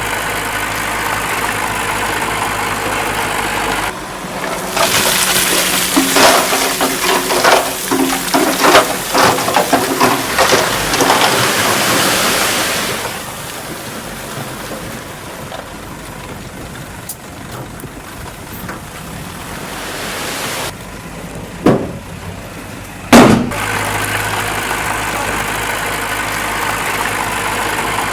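Heavy diesel machinery idling steadily, then a long run of loud clattering and knocking as of big rocks tumbling and crashing, fading after several seconds. Two sharp knocks come near the end, and the steady idle returns.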